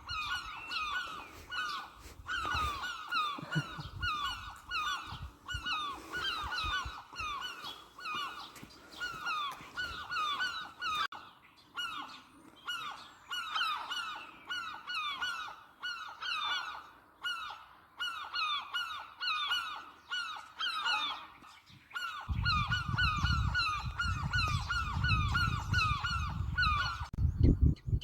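A flock of birds calling insistently in alarm, many short, downward-sliding calls overlapping several a second. A low rumble joins in during the last few seconds.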